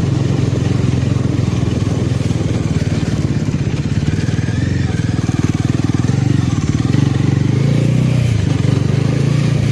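Motorcycle engine running at a steady cruising speed while being ridden, with a continuous drone that dips briefly near the end, over road and wind noise.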